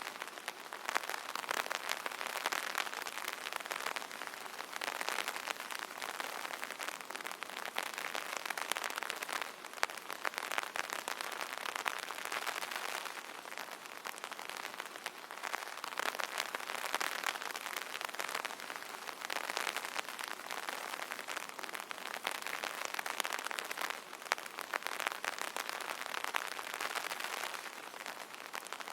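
Rain falling on an umbrella canopy: a dense, even run of fine drop hits that grows louder and softer in waves every few seconds.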